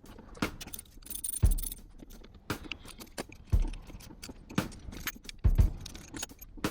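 A series of sharp clinks and knocks, roughly one a second, each with a low thud, like metal parts or tools being handled.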